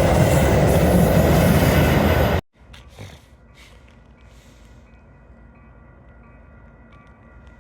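Loud, steady noise of a train running by, cut off abruptly about two and a half seconds in. It gives way to quiet background with faint steady high tones.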